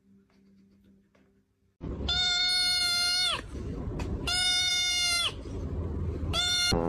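An animal calling three times, loud and high with a steady pitch, each call dropping in pitch at its end; the first two long, the last short. Before the calls there is only a faint low hum.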